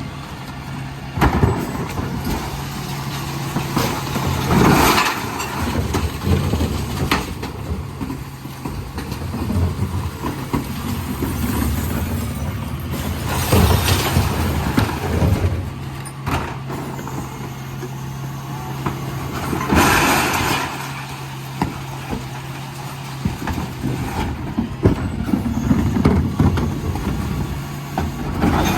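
Dennis Elite 6 refuse truck's diesel engine running steadily, with several loud noisy bursts about a second in, near five seconds, around fourteen seconds and at twenty seconds, from the lorry's bin-lifting and collection work.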